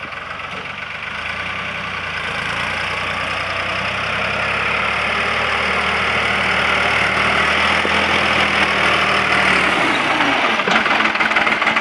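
New Holland TT55 tractor's diesel engine running steadily, growing louder over the first eight seconds or so; its low hum changes about ten seconds in.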